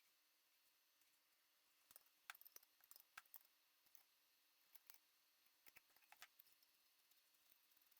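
Near silence with faint, scattered light clicks and ticks, in small clusters about two seconds in and again near five and six seconds.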